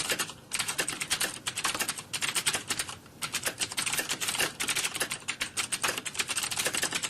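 Fast typing on a computer keyboard: a rapid, continuous run of key clicks, briefly pausing twice.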